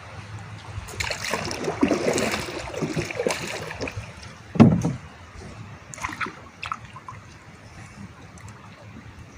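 Water splashing and sloshing beside a small boat for a couple of seconds, then a single heavy thump, followed by a few light knocks.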